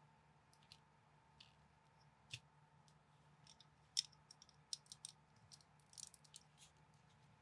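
Faint, irregular clicks and clacks of plastic building bricks being handled and snapped together, the loudest about four seconds in and a quick cluster around six seconds, over a faint steady hum.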